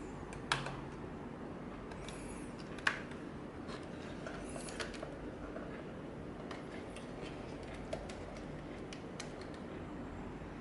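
Scattered small clicks and taps from objects being handled, with two sharper clicks in the first three seconds, over a steady low background hum.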